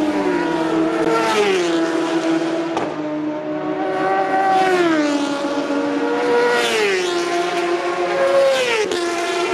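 Superbike racing motorcycles passing at very high speed one after another, each engine note dropping in pitch as it goes by, about five passes in all.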